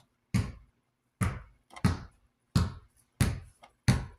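Scraping strokes on the surface of a Galaxy 2150 oscillating fan, repeated about six times at a steady pace, each starting sharply and trailing off quickly: paint stains being scraped off the fan.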